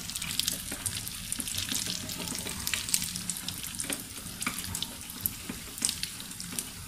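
Cashew nuts frying in hot ghee in a small pan, a steady sizzle with scattered crackling pops as they are stirred with a spoon.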